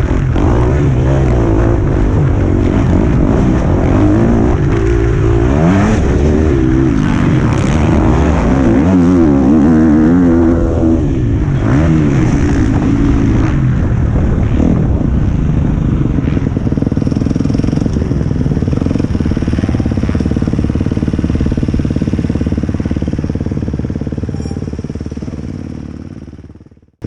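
Motocross bike engine heard from an onboard camera, revving up and down for the first dozen seconds, then running steadier and fading out near the end.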